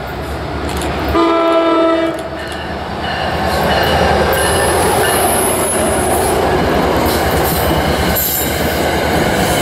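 NJ Transit PL42AC diesel locomotive blows its horn once for about a second as it approaches, then runs past close by hauling its passenger coaches, with the loud rumble of the engine and wheels on the rails and a brief high wheel squeal midway.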